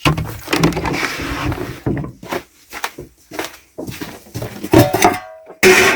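Knocks, clatters and rustling as a container of corn is handled and the corn thrown to chickens, with a loud clatter near the end.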